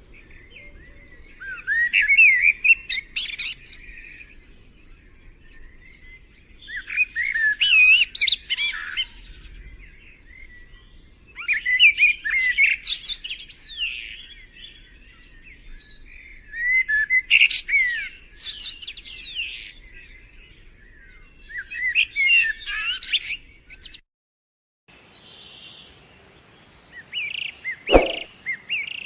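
A songbird singing in repeated bursts of chirps, each about two seconds long and coming every five seconds or so, over a faint low background. Near the end the sound drops out for a moment and a different recording begins, with a single sharp click.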